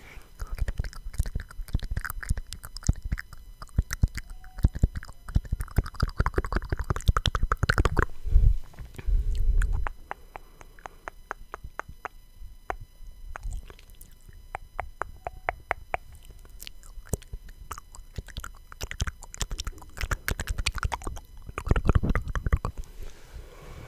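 Close-miked ASMR mouth sounds: rapid wet clicks and smacks, with a few heavy low puffs against the microphone about eight seconds in and again near the end.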